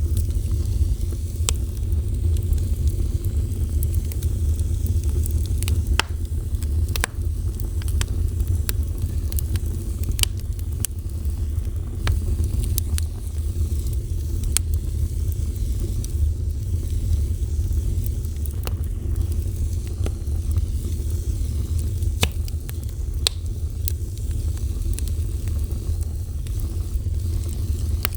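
Wood fire burning with a steady low roar of flames and scattered sharp crackles and pops.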